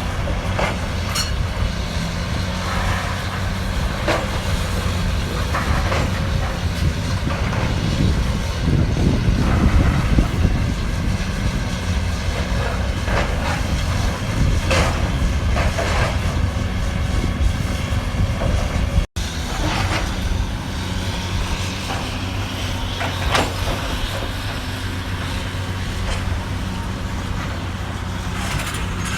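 Cat 320D hydraulic excavator's diesel engine running steadily under working load, with scattered knocks and crunches of demolition debris. The engine swells louder for a couple of seconds about eight seconds in.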